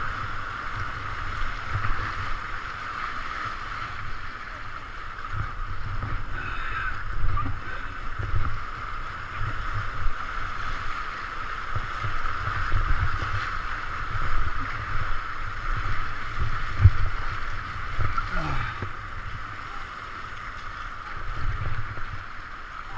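River water rushing and gurgling around a kayak running a rapid, a steady wash, with irregular low thumps on the microphone.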